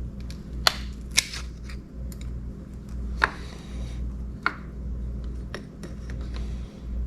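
Hand tools clicking and clinking against the metal parts of an outboard motor as it is taken apart: four sharp clinks among fainter clicks, over a steady low hum.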